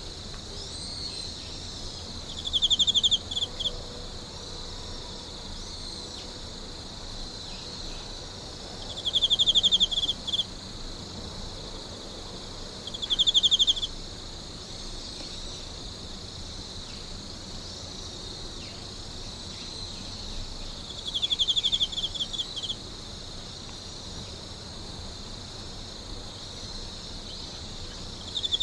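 A night chorus of insects with a steady high chirring, and a nearer insect giving louder short, rapid trills five times, several seconds apart.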